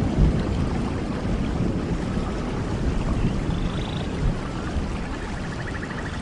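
Steady rain: a dense, even hiss with a deep rumble underneath.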